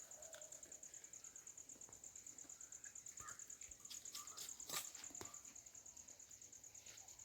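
An insect, cricket-like, trilling steadily in high-pitched rapid pulses, about ten a second, with a few faint bird chirps and a sharp click or two about five seconds in.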